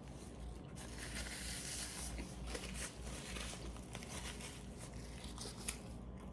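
Paper food wrappers crinkling and rustling as they are handled, with a few sharp crackles.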